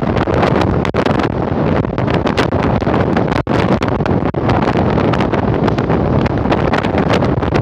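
Strong gale-force wind buffeting the microphone: a loud, steady rush broken by many quick crackles.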